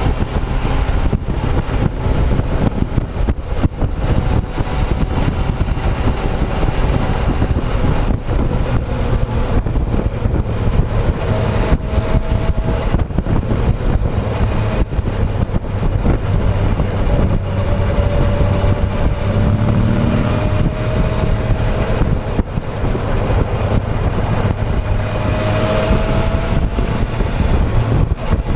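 Motorcycle riding at speed: steady wind rush buffeting the microphone over the engine, whose note rises a few times.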